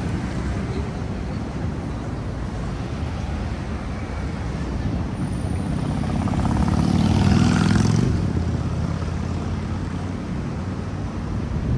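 City street traffic with a steady low rumble, as a heavy vehicle passes close, loudest about seven seconds in and then fading.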